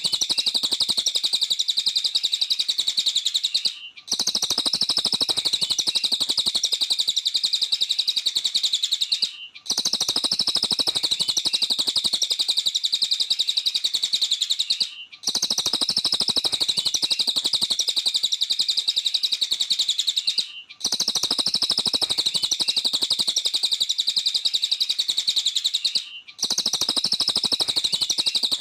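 Cililin songbird chattering in a fast, continuous high-pitched trill, the song called 'gacor' (in full, lively voice). The same stretch of recording repeats, with a brief break about every five and a half seconds.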